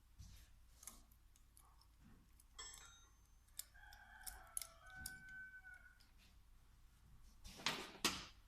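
Faint scattered clicks from handling small parts at a workbench, with a faint drawn-out pitched call in the middle and a short, louder scrape near the end.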